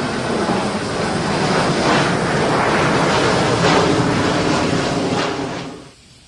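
Jet airliner engines running loud and close, a dense roar with some crackle, cut off abruptly near the end.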